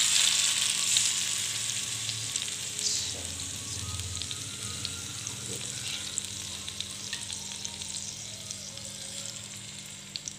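Marinated chicken pieces sizzling and crackling as they shallow-fry in butter and cooking oil in a frying pan. The sizzle is loudest at the start and gradually dies down.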